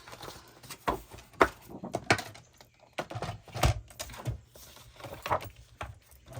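Irregular clicks, taps and knocks of paper and craft tools being handled on a table, with a few heavier thumps about halfway through.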